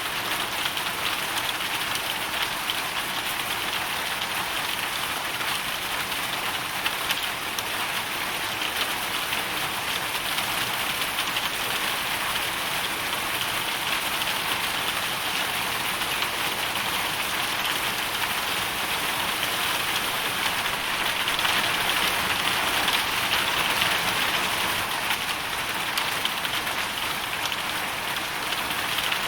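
Hailstorm: hail and rain falling steadily in a dense patter, with a few sharper hits and a slight swell in intensity about three quarters of the way through.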